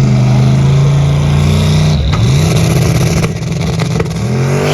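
Loud car engine held at high revs. Its pitch dips and climbs back about two seconds in, then rises again near the end.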